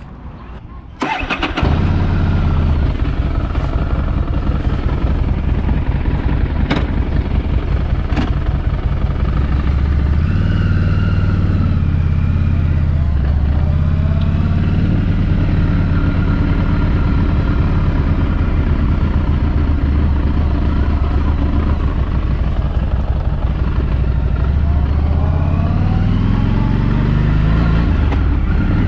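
2016 Harley-Davidson Street 500's V-twin engine starting about a second in, then running through its stock exhaust, its pitch rising and falling several times with the throttle.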